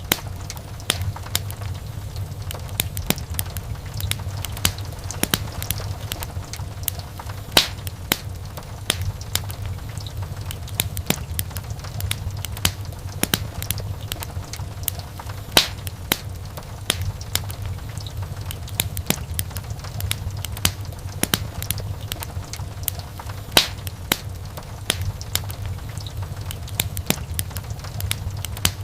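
Wood fire crackling in a fireplace: a dense run of small snaps and pops over a low steady rumble, with three louder pops evenly spaced through the stretch.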